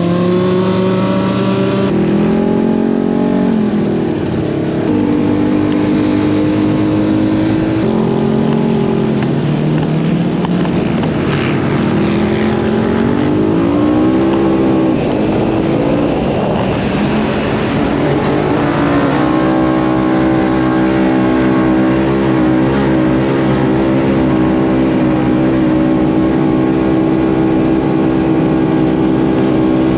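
Side-by-side UTV engine running hard over sand dunes, its pitch climbing and dropping again and again as the throttle is worked, then holding steadier in the second half.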